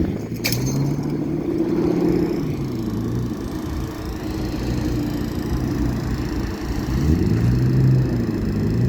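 Truck engine revving up and easing back twice, under load while tugging a stuck truck free on snow and ice. A sharp click sounds about half a second in.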